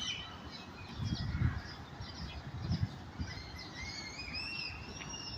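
Songbirds chirping and whistling, many short calls at different pitches overlapping, with two low thuds about a second and a half and nearly three seconds in.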